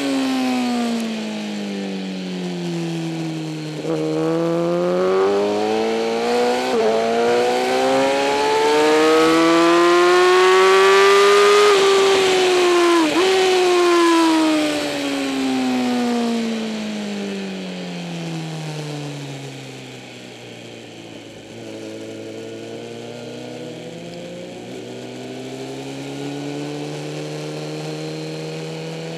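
2008 Kawasaki ZX-10R inline-four sportbike engine heard on board. Its revs climb and fall in long sweeps with brief breaks at gear changes, then drop to low revs about two-thirds in and pick up gently again. Wind rushes throughout.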